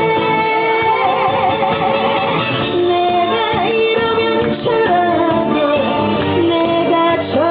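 Korean trot song: a woman singing held notes with wavering vibrato over a full backing track.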